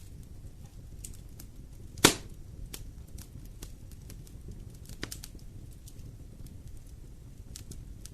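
Wood fire in a fireplace burning with a low rumble and scattered crackles. There is one loud sharp pop about two seconds in and a smaller one about five seconds in.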